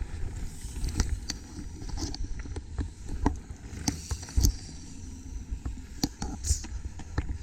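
Mountain bike ridden over rough trail: wind rumble on the microphone under irregular knocks and rattles from the bike bouncing over the ground.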